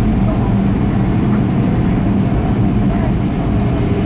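Steady low drone of the Boeing 737-500's CFM56 jet engines running, heard inside the passenger cabin, with a constant hum under the rumble.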